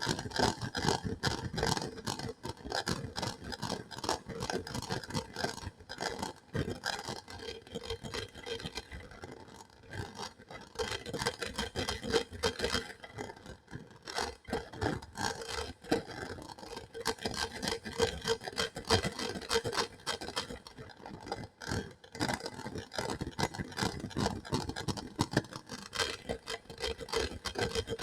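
Close-miked ASMR trigger sound: rapid, irregular scratching and scraping on a surface, with dense crackly ticks that keep going throughout.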